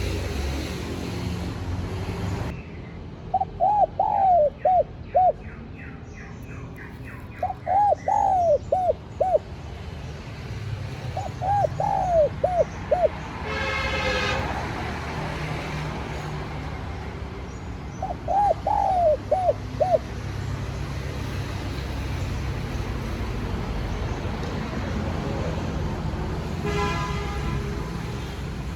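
Spotted dove cooing: four separate phrases of several coo notes each, a few seconds apart. Faint chirping of a small bird early on, two brief horn-like toots, and a steady low rumble underneath.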